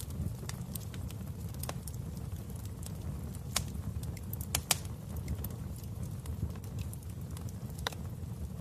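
Wood fire burning in a fireplace: a steady low rumble with irregular crackles and pops, a few louder snaps about three and a half, four and a half and eight seconds in.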